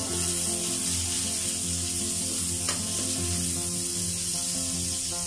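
Onions and tomatoes sizzling as they fry in oil in a wok, stirred with a metal spatula that scrapes the pan and clicks against it once about halfway through. Background music plays along.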